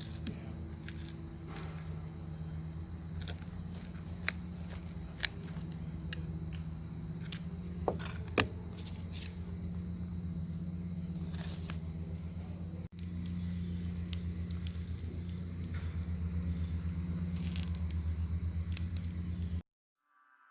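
Bacon sizzling in a pan over a wood fire: a steady high sizzle with scattered sharp pops and crackles over a low steady rumble. It cuts off suddenly near the end.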